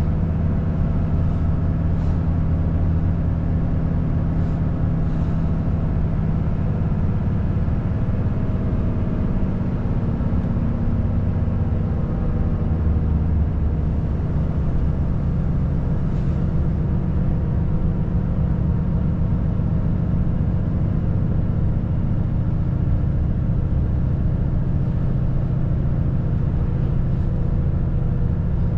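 Volvo FH540 truck's 13-litre inline-six diesel running steadily while driving, a constant low drone with no sudden events.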